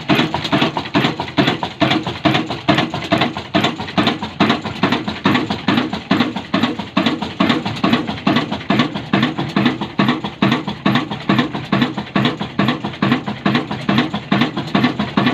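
12 HP Pakistani 'Kala' single-cylinder diesel oil engine running at a steady, even beat. It runs smoothly, with no knocking.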